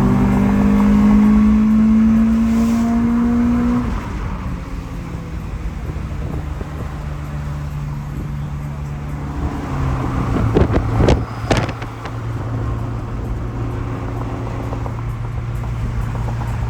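Car engine accelerating, its pitch rising steadily for about four seconds before it drops back, then running steadily at a lower pitch, with a few sharp knocks about two-thirds of the way through.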